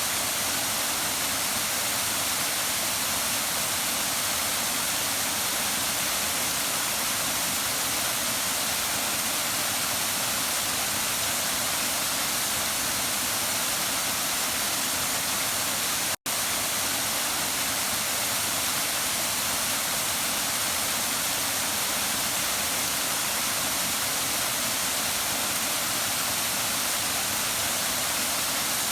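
Waterfall: a steady, even rush of falling water, with a split-second dropout to silence about halfway through.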